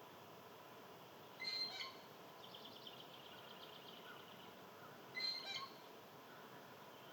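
Wild birds calling: two short, sharp calls about four seconds apart, with a fainter rapid trill of quick repeated notes between them, over a steady outdoor hiss.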